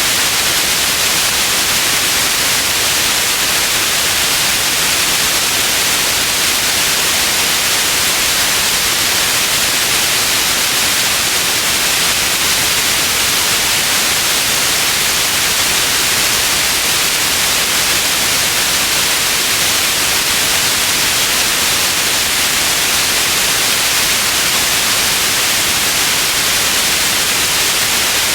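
Steady white noise: an even hiss with no change, weighted toward the high end.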